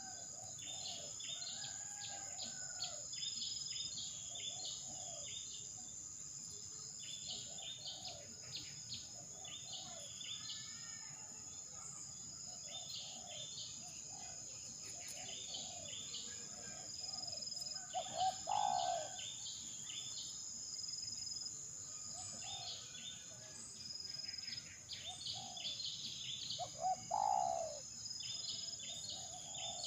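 Birds calling over a steady high-pitched insect drone: repeated clusters of short chirps and a string of low cooing notes, with two louder calls about two-thirds of the way in and near the end.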